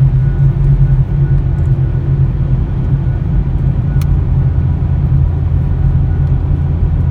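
Car on the move, heard from inside: a steady low engine and road rumble, with a single faint tick about four seconds in.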